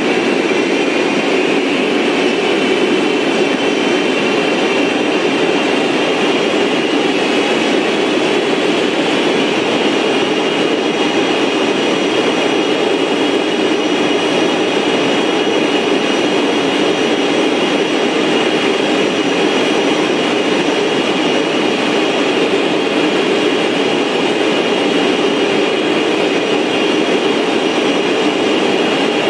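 Aircraft engines and airflow running steadily, a constant noise with several high, steady whining tones over it.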